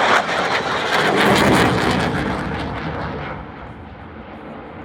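Military aircraft engine noise as an aircraft flies past, loud at first and then fading away over the second half.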